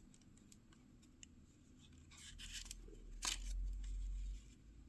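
Faint handling sounds of packaging being opened by hand: scattered light clicks, a short rustle a little after two seconds, and a sharp click about three seconds in, over a low rumble of handling.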